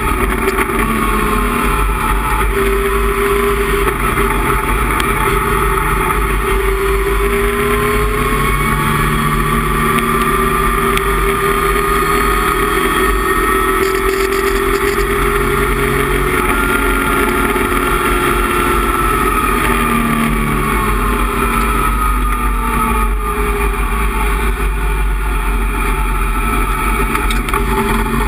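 Datsun 260Z race car's 2.6-litre straight-six running hard under load, heard from inside the cabin. The engine note climbs slowly for the first half, holds, then falls away about two-thirds of the way through as the revs drop.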